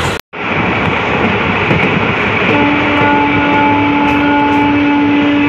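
Passenger train running at speed, heard from inside a coach: a steady rumble and rush of wheels and air. About two and a half seconds in, a steady held tone joins it. The sound cuts out for a split second just after the start.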